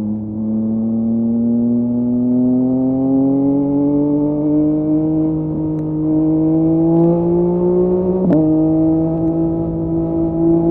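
Yamaha MT-09's three-cylinder engine through a LeoVince LV Race exhaust, its pitch rising steadily as the bike accelerates. About eight seconds in there is a sharp crack and a brief dip in pitch, then the engine runs on at a steady note.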